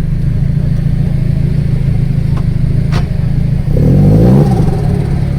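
Hakosuka Nissan Skyline's very loud exhaust idling with a steady low rumble, then blipped once in a short rev about four seconds in that rises and falls back to idle. A single sharp crack sounds just before the rev.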